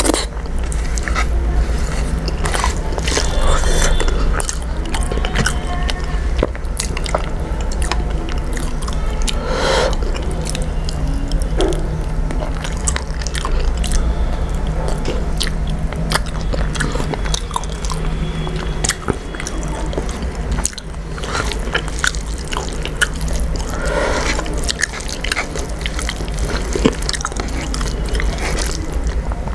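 Close-miked chewing and lip-smacking of a mouthful of rice and fish eaten by hand, with many small wet mouth clicks, over a steady low hum.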